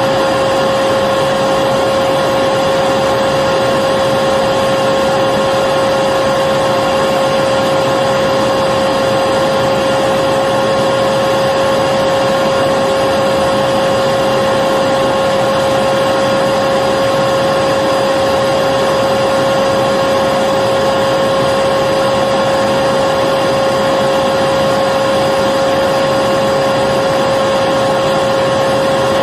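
Electric vacuum cleaner running steadily, a constant rushing hum with a strong steady whine, played as continuous white noise for a baby's sleep.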